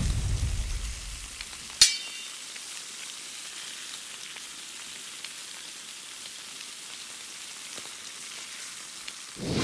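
Food sizzling on a barbecue grill: a steady, even hiss. One sharp metallic clink comes about two seconds in. A whoosh fades out at the start and another swells in near the end.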